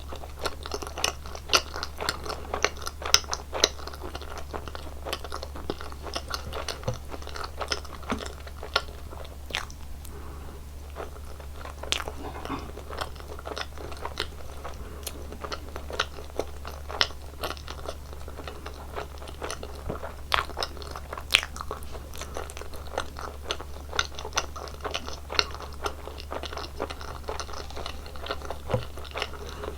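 Close-miked chewing of jelly candy and gummies: dense wet clicks and sticky crackles with sharper crunchy snaps, thinning briefly in the middle, over a steady low hum.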